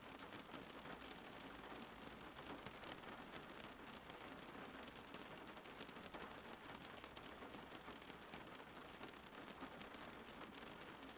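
Steady rain falling, faint: an even hiss dotted with many small ticks of drops.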